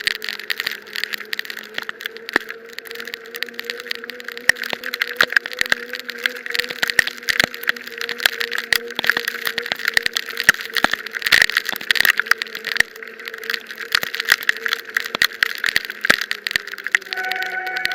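Bicycle ride in heavy rain: raindrops striking the camera and gear in a dense, irregular patter of sharp ticks over a hiss, with a steady low hum underneath. Near the end a higher steady tone starts.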